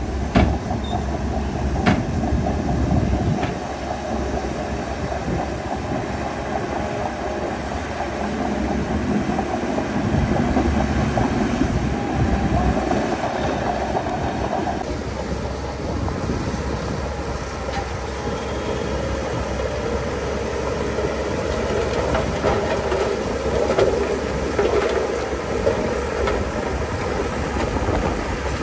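Shantui DH17C2 crawler bulldozer working: the diesel engine runs steadily under load while the steel tracks clank and squeal.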